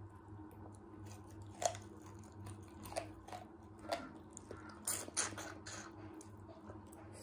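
A person chewing a mouthful of rice and chicken close to the microphone, with wet smacks and clicks of the mouth about once a second.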